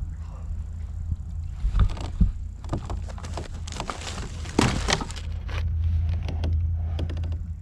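Knocks, clicks and rattling of gear being handled in a fishing kayak, with a dense clatter around the middle, over a steady low rumble that grows louder near the end.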